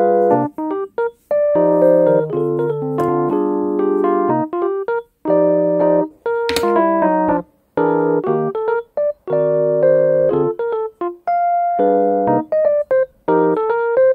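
Background piano music, electric-piano in tone, playing chords and short melodic phrases with brief gaps between them.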